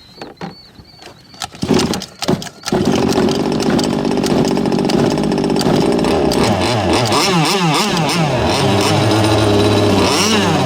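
Small two-stroke gas engine of a ProBoat Rockstar RC catamaran starting: a few short sputters, then it catches about two and a half seconds in and keeps running, its speed rising and falling. It is a brand-new engine on its first run, still in its break-in period.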